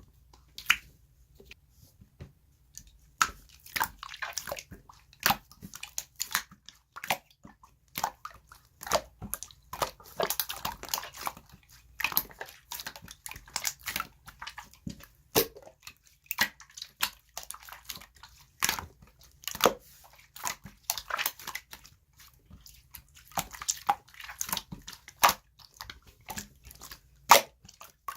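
Pearl green slime being squeezed and pressed by hand, giving irregular sharp clicks and pops of trapped air with short crackly stretches.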